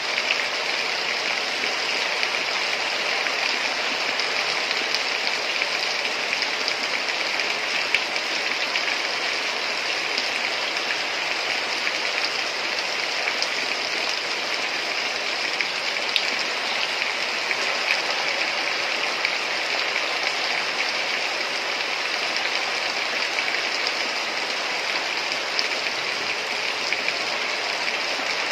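Heavy rain falling steadily, an even hiss of water with occasional louder drops.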